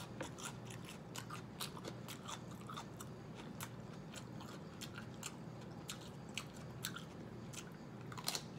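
A person chewing a mouthful of food close to the microphone: irregular wet mouth clicks and smacks, a few each second.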